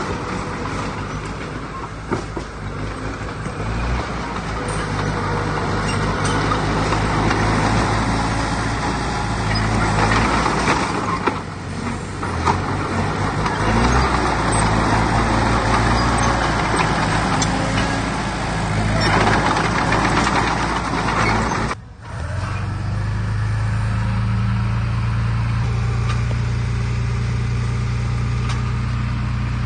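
Heavy diesel engine of earthmoving machinery running and labouring under changing load. It breaks off abruptly about two-thirds of the way through, then runs on at a steady pitch.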